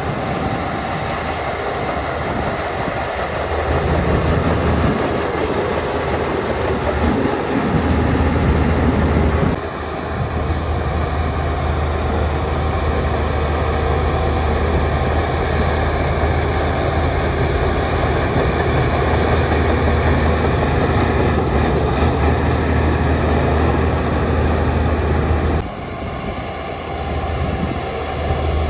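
Heavy diesel earthmoving machinery running: a steady low engine drone over a constant mechanical clatter. The sound shifts suddenly about ten seconds in and again near the end.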